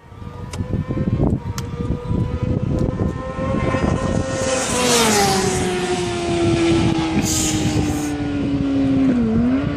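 2008 Kawasaki ZX-6R's inline-four running through a shortened GSX-R slip-on exhaust, a steady low pulsing exhaust note. A pitched tone above it drops about halfway through and then keeps sinking slowly, with two brief dips near the end.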